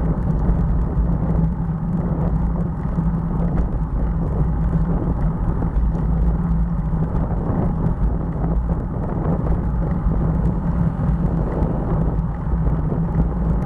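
Steady rumbling wind and road noise on the microphone of a moving bicycle, with no distinct events.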